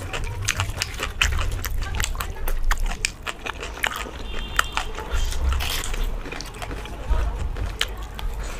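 Close-miked eating of chole bhature by hand: chewing, wet lip smacks and mouth clicks in a dense, irregular run, with the soft tearing of fried bhatura bread.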